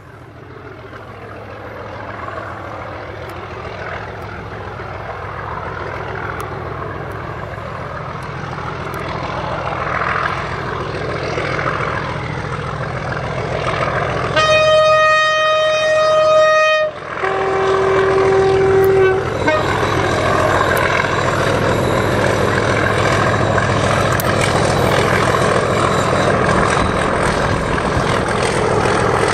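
A train approaching, its rumble growing steadily louder. About halfway through it sounds a two-tone horn: a long high note, then a shorter lower one.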